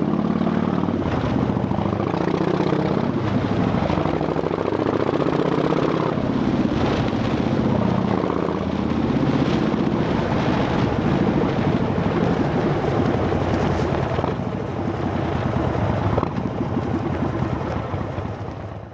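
Harley-Davidson Dyna Fat Bob's V-twin running through Vance & Hines Shortshots exhaust pipes with quiet baffles, the engine note rising and falling several times.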